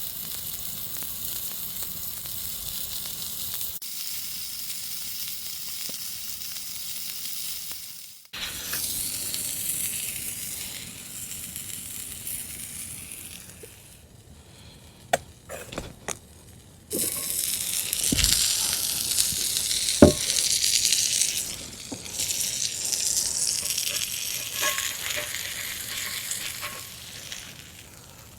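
A burger patty sizzling in a Lodge cast iron pan over a campfire, a steady high hiss that stops and starts at a few cuts, with a few short sharp knocks about halfway through, the loudest near the end of that stretch.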